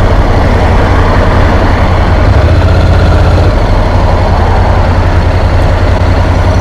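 Honda NC750X motorcycle's parallel-twin engine running steadily on the move, a low even hum under a steady rush of wind and road noise.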